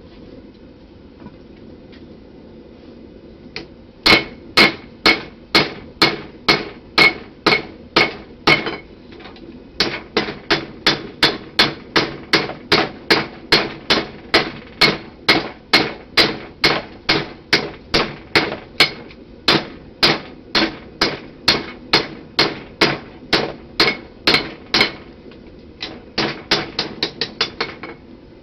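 Blacksmith's hammer striking knife-blade steel on an anvil while forging the bevels. The steady blows come about two a second, each with a short metallic ring, with a brief pause partway through and a quicker run of lighter taps near the end. A steady low hum runs underneath.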